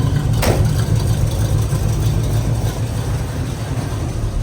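Classic Pontiac Grand Prix engine idling steadily on freshly changed oil, with one sharp click about half a second in.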